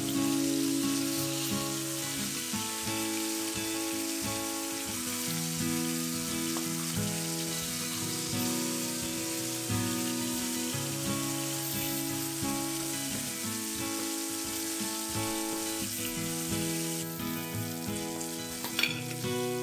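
Capelin shallow-frying in hot vegetable oil in a pan, a steady sizzle of bubbling oil, with background music of held notes over it. A single sharp tap near the end.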